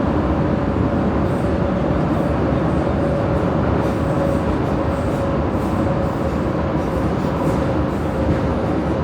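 Prague metro line A train (Siemens M1 unit) running at speed through the tunnel between stations, heard from inside the car: a steady rumble with a constant whine.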